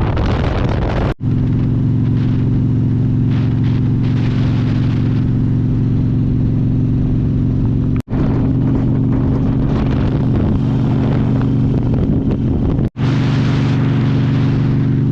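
Harley-Davidson V-twin motorcycle engine running at a steady pitch, a loud, even drone. The sound cuts out abruptly for an instant three times.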